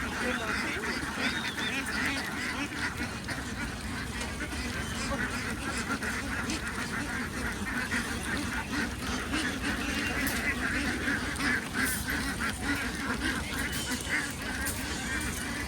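A large flock of domestic ducks quacking together in a continuous, overlapping chorus with no pauses.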